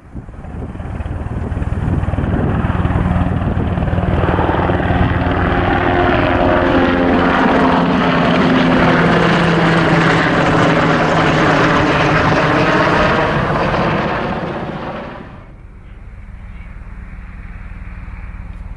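Sikorsky HH-60G Pave Hawk twin-turboshaft helicopter flying past: the rotor and engine noise builds over the first couple of seconds, stays loud with its tones sliding slightly lower midway through as it passes, then drops away sharply about fifteen seconds in, leaving a fainter steady rumble.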